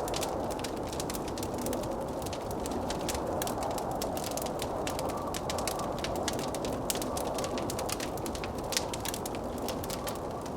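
Wood fire crackling, with many sharp irregular pops and snaps, over a steady rushing blizzard wind.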